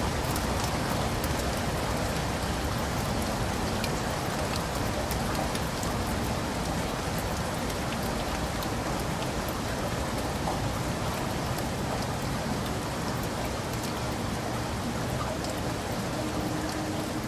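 Heavy rain falling steadily in a forest: a dense, even hiss with many individual drops ticking through it.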